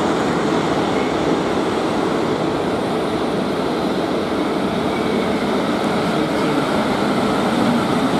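South Western Railway Siemens Desiro electric multiple-unit train running along the tracks past the platform, a steady rumble of wheels on rail and traction equipment.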